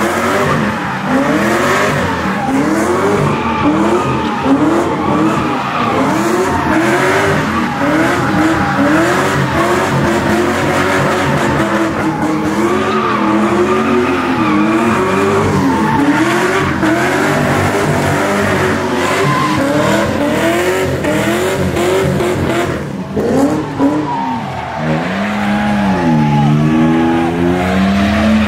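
Car engines revving up and down over and over, one rise and fall about every second, with tires screeching as cars slide and spin. Near the end one engine revs up and holds high for a couple of seconds.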